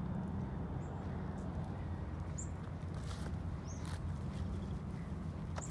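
Steady low wind rumble on the microphone, with four short, high bird chirps scattered through.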